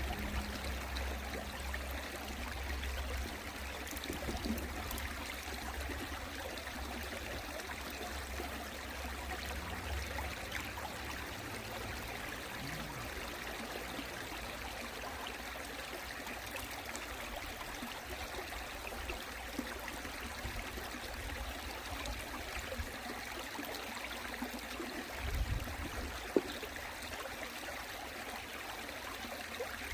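A mountain stream flowing steadily over rocks. A low rumble under it stops about ten seconds in, and there is a short thump and a sharp click near the end.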